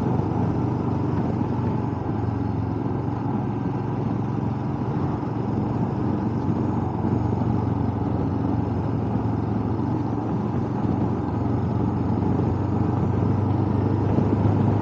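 Motorcycle engine running steadily under way, getting a little louder near the end.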